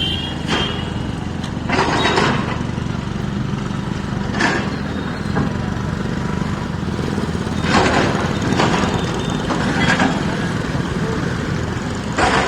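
Heavy diesel earthmoving machine running steadily, with about seven short, sharp noises at uneven gaps of one to three seconds, one near two seconds in lasting about half a second.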